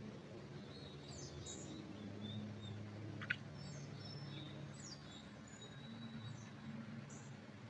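Small forest birds calling faintly: scattered short high chirps and quick falling notes, with one sharper call about three seconds in, over a low steady hum.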